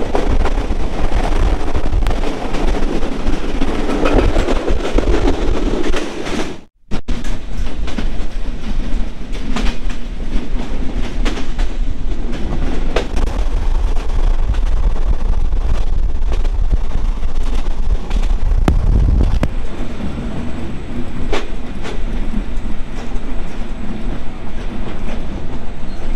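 Passenger train running at speed: a steady rumble of wheels on the rails, with repeated clicks over the rail joints. The sound cuts out for a moment about seven seconds in.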